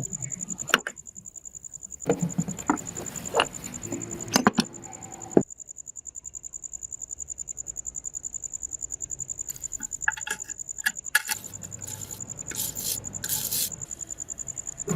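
A steady, rapidly pulsing high-pitched trill like a cricket's, with scattered sharp clicks and knocks in between, the loudest of them in a cluster between about two and five seconds in.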